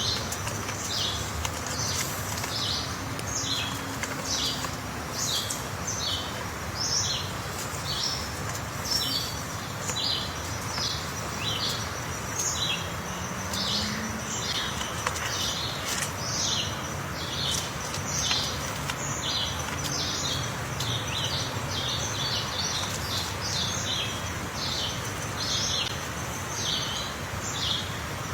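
A bird chirping over and over, short sharp high notes about one to two a second, with a faint steady high thin tone underneath.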